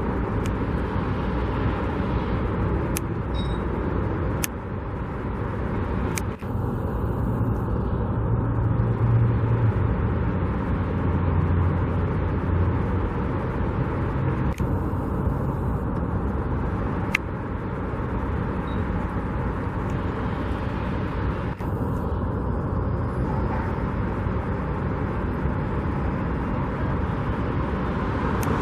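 Steady road traffic noise, with a louder low rumble of a heavier vehicle going by about seven to thirteen seconds in.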